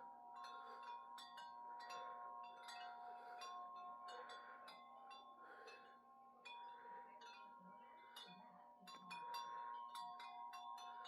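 Wind chimes struck irregularly by gusting wind, faint, with many quick clinks and ringing tones that hang on between strikes.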